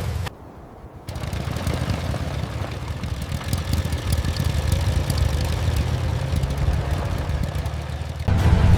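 Small motorbike engine running at idle, with a short dip in level just after the start before it settles into a steady run.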